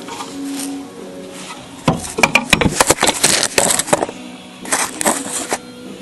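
A quick flurry of sharp metallic clanks and clicks, with a few more shortly after, from tools and parts being handled while the engine is worked into place.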